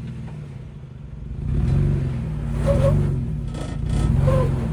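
Jeep engine revving in three swells under throttle as the Jeep works to climb over a rock, its rear passenger tire getting pinched. A few short squeaks sound over the engine.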